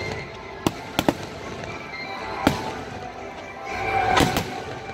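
Aerial firework shells bursting: about six sharp bangs, three close together in the first second or so, one in the middle and two in quick succession near the end, over music that accompanies the show.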